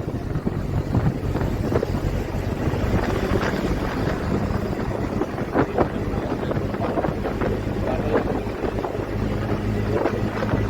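Wind buffeting the microphone, over a steady low hum.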